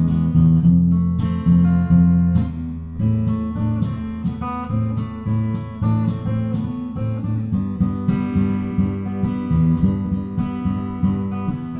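Acoustic guitar strumming chords with bass notes, an instrumental passage with no singing that closes out a song.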